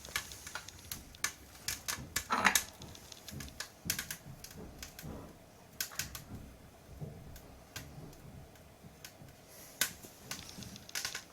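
Scattered irregular clicks and light knocks, with a louder knock about two and a half seconds in.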